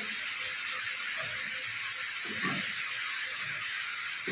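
Beef mince tikkis (patties) frying on a flat griddle, a steady sizzling hiss.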